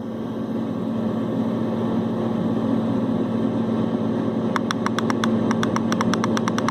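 LectroFan white noise machine playing its first fan sound at maximum volume: a steady fan-like rush with a low hum, swelling slightly in the first second and then even. A rapid run of sharp clicks joins it about four and a half seconds in.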